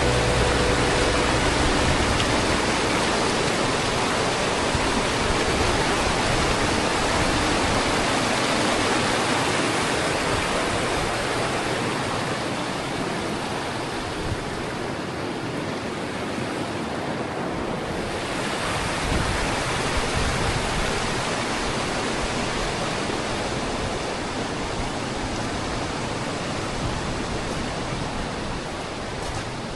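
Steady rush of flowing water, an even hiss-like roar with no rhythm, slowly growing a little fainter.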